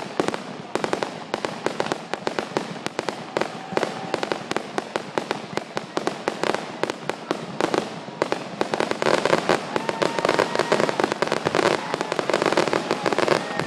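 Fireworks display: a rapid, dense crackle of sharp pops from bursting aerial shells, growing busier and louder about eight seconds in.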